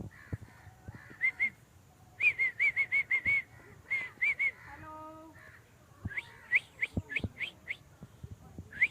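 Birds calling: runs of short, quick high notes at about five or six a second, a brief lower call about halfway through, and then a series of rising whistled notes.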